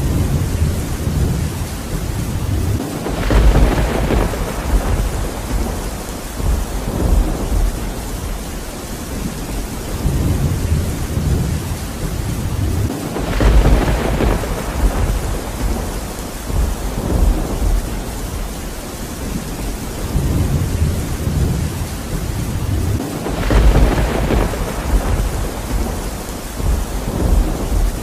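Steady heavy rain with rolling thunder: three rumbles, about ten seconds apart, each swelling up and slowly dying away over several seconds, the first a few seconds in.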